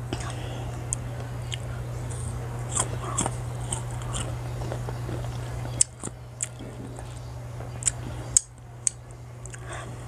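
Close-up mouth sounds of biting and chewing crisp unripe green mango slices: short, sharp wet crunches and clicks at uneven intervals, about a dozen in all. A steady low hum runs underneath and drops away about six seconds in.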